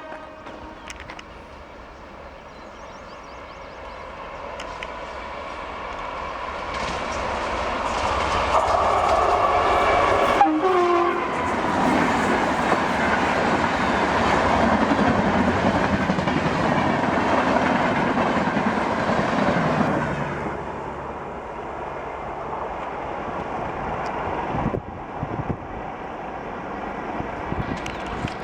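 Indian Railways express train passing at high speed, its rumble and wheel clatter swelling over several seconds, holding loud for about ten seconds, then dropping off suddenly as the train clears. The locomotive's horn sounds briefly about ten seconds in.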